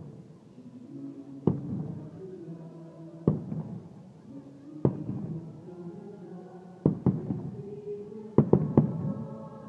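Aerial firework shells bursting in sharp bangs every couple of seconds, then a quick cluster of three near the end, over the fireworks show's music.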